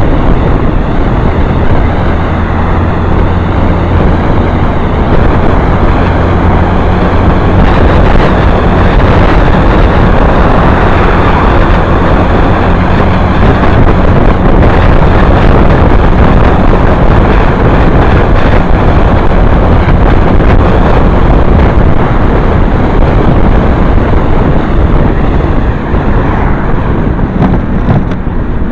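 Motorcycle riding along, its engine running steadily under heavy wind rush on the microphone. The engine note shifts a few seconds in, and the sound eases slightly near the end.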